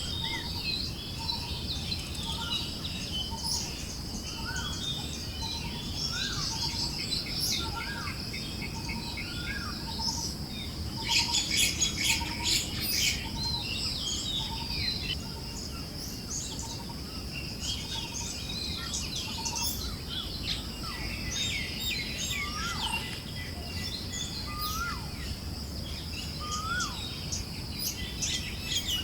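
Forest birds chirping and singing over a steady high insect hum, with a short low note repeating about twice a second through the first half and a louder burst of chirping about eleven seconds in. A soft wind hiss sits underneath.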